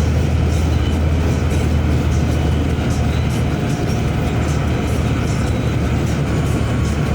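Steady low road rumble of a moving vehicle, heard from inside it, constant throughout.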